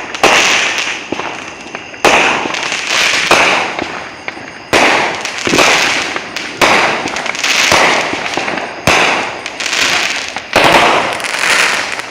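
Fireworks going off in quick succession: a sharp bang every second or two, each followed by a crackling tail as it fades.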